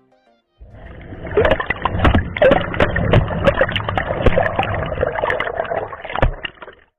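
Water churning and sloshing in a running washing machine tub, with many sharp knocks as the action camera in its plastic waterproof housing is tossed about. The sound is muffled; it starts about half a second in and stops just before the end.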